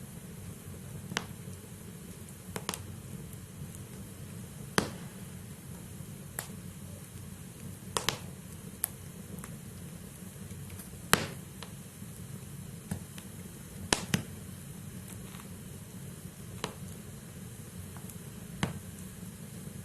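Wood logs burning in a fireplace: a steady low fire rumble with irregular sharp crackles and pops, a dozen or so spread unevenly, several of them loud.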